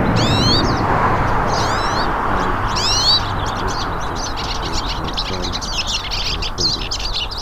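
Hooded siskins (pintassilgos) singing: sweeping high notes repeated about once a second, then a quicker twittering run in the second half, over a steady background noise.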